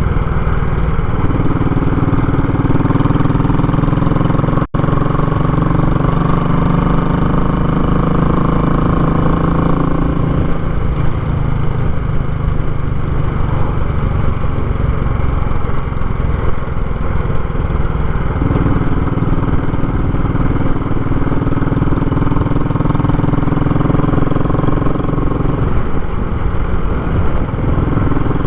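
Royal Enfield Classic 500's single-cylinder engine running through a short, raw muffler while riding. Its note steps up and down in pitch a few times, and the sound cuts out for an instant a little under five seconds in.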